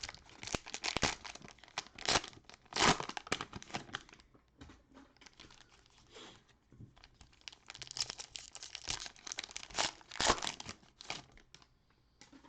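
Cellophane wrapper of a basketball trading-card cello pack being torn open and crumpled: dense, crisp crinkling and tearing, easing off in the middle and coming back strongly before it stops near the end.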